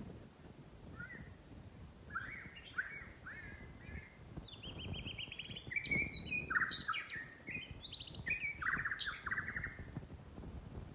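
White-rumped shama singing: a varied string of whistled phrases that begins about a second in and grows busier in the second half, with rapid trills and sharp high notes.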